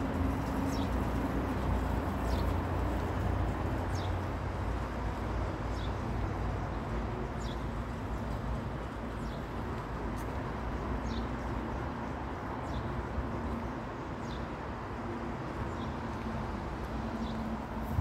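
A small bird repeating a short, high call that slides downward, about once every second and a half, over a steady low rumble and hiss.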